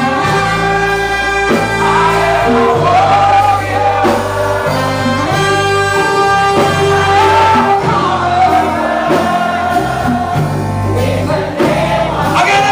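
Gospel music with singing over a band, with held bass notes under the melody.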